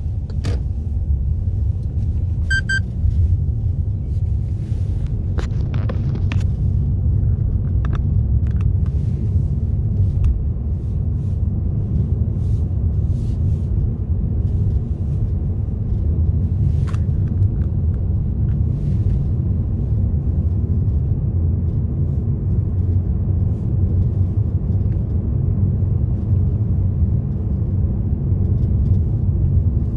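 A car driving steadily, with constant low road and engine rumble. A short electronic beep sounds about two and a half seconds in, and a few faint clicks come and go.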